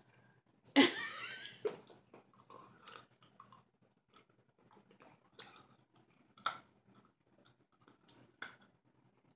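Hard lollipop candy being chewed and crunched, with scattered sharp crunches and mouth clicks, a few louder ones in the second half. About a second in there is a short vocal sound.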